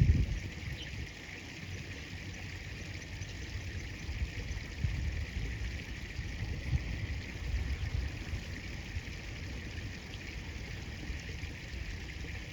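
Steady rush of flowing river water, with a brief low thump right at the start and low rumbles coming and going.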